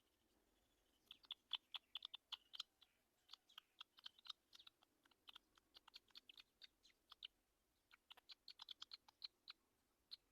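Faint, sharp clicks and ticks in irregular runs of several a second, in three bursts with short pauses between.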